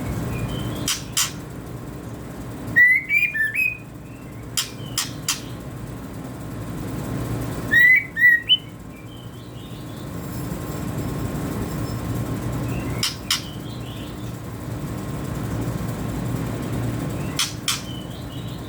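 Young white-rumped shama chirping: two loud clusters of short quick chirps, with a few single sharp clicks scattered between them, over a steady low hum.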